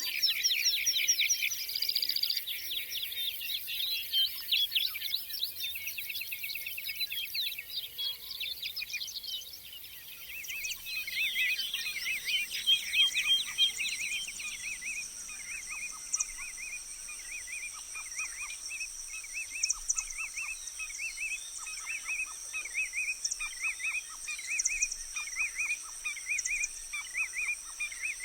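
A chorus of several songbirds chirping and trilling. From about ten seconds in, a steady high insect drone joins, and one bird repeats a short chirp over and over.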